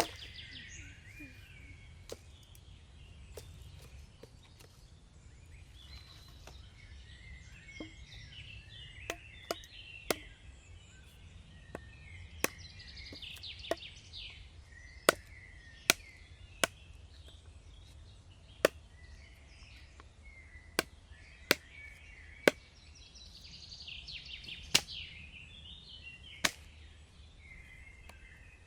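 Sharp single knocks, well over a dozen, at irregular intervals that are often about a second apart, with small birds chirping in the background.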